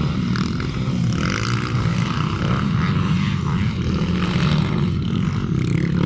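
Motocross dirt bike engines running in a steady drone.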